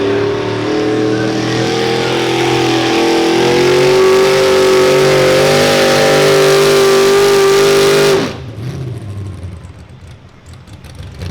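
Mini modified pulling tractor's engine at full throttle under load, loud and slowly rising in pitch, then cutting off abruptly about eight seconds in as the pull ends.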